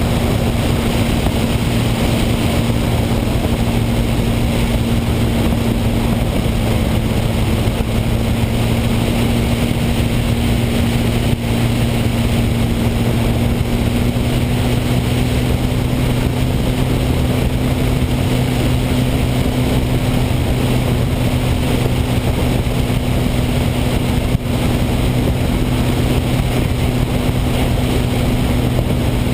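An engine running steadily at a constant speed, a low even drone whose pitch edges up slightly about halfway through.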